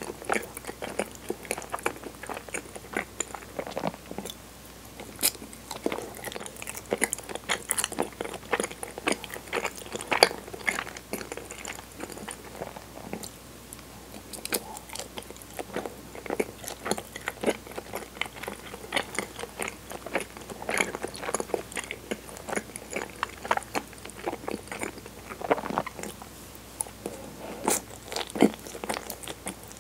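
Close-miked chewing of soft, sticky cinnamon-flavoured chigiri mochi dusted with kinako, with many small irregular wet mouth clicks.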